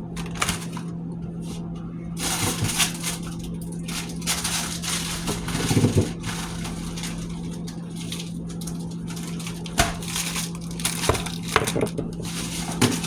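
Frozen food packages and plastic bags being shifted around in a freezer, rustling and crinkling, with scattered knocks and clicks as items are set down. A steady low hum runs underneath.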